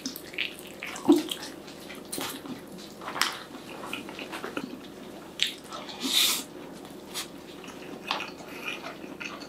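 Biting into and chewing a fried chicken drumstick coated in garlic mayo: irregular wet smacks and clicks of the mouth, with a sharp click about a second in and a short hissing smack around the middle.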